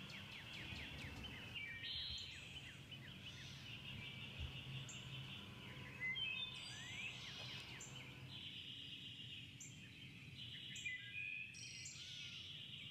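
Small birds singing: many quick rising chirps and rapid trills, with a faint steady low hum underneath.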